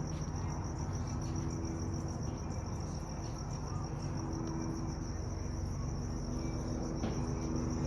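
Crickets chirping in a steady, fast-pulsing high trill, over a low steady rumble.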